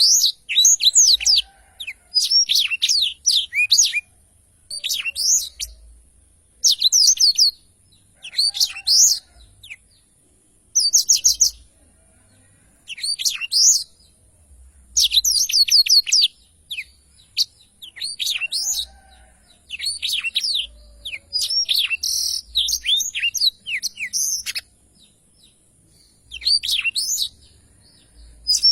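A black-throated canary (blackthroat) singing: about a dozen fast twittering song phrases, each around a second long, with short pauses between them.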